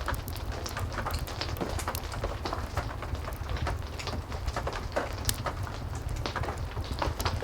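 Heavy rain falling steadily, with a wood fire crackling: many small sharp pops over the rain's hiss and a low rumble.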